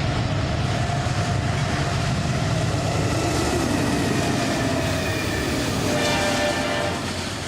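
Train running past with a loud, steady rail noise, and a short horn sounding for about a second near the end.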